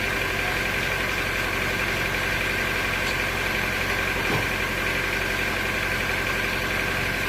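Sawmill machinery running steadily: an even engine-like drone with a fast low pulsing and a steady high whine over it. There is a faint click about four seconds in.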